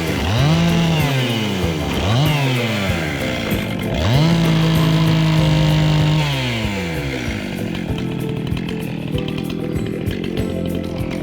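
Husqvarna 262XP two-stroke chainsaw revved in short bursts of throttle, then held at full speed for about two seconds. For the last few seconds it runs lower and rougher.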